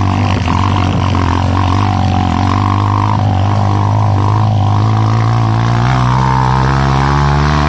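Motorcycle engine running with a steady low drone, its pitch rising about six seconds in as it revs up.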